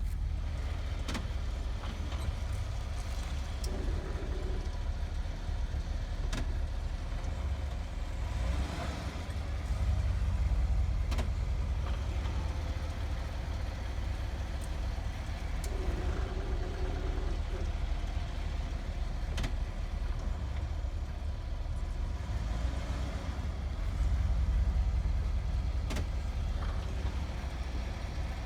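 A 2017 GMC Sierra's front brakes make a pulsating, gurgling noise as the brake is pressed lightly while the truck creeps forward; the cause is uncertain, and the owner only suspects the front brakes. A steady low rumble runs throughout, with a few sharp clicks here and there.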